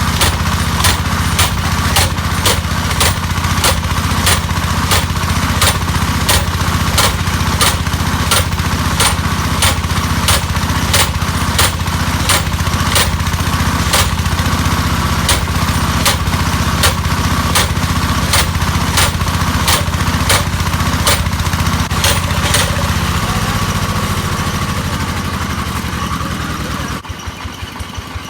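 Engine-driven hammer drilling machine running, its small engine droning steadily under sharp, evenly spaced hammer blows a little over two a second. Near the end the engine drops back toward idle.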